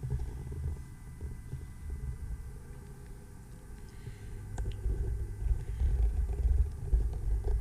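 Low, irregular thumping and rumble of footsteps and handheld-camera handling noise, louder in the second half, with a single sharp click about halfway through.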